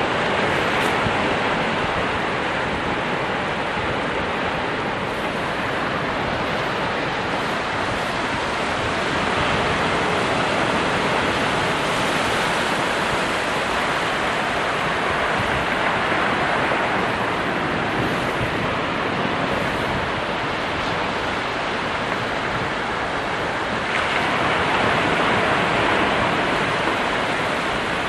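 Ocean waves washing in and breaking as a continuous, dense rush of surf, swelling and easing slowly over several seconds.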